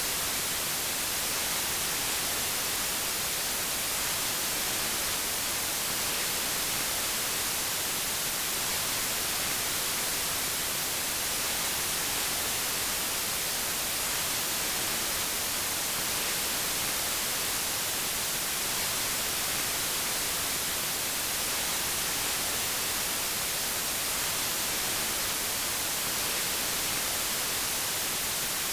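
Steady synthetic white noise: an even, unbroken hiss with no pitch or rhythm, brightest in the treble.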